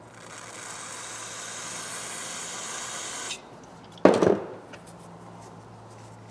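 A steady hissing spray for about three seconds that cuts off sharply, cleaning leftover polishing compound out of ratchet parts, then, about a second later, a loud clattering knock with a short ring.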